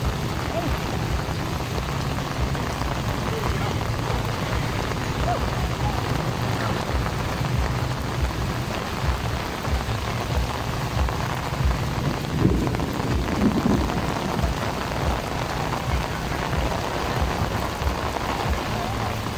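Heavy rain pouring down steadily, with gusts of wind buffeting the microphone in low thumps. A voice is heard briefly about twelve seconds in.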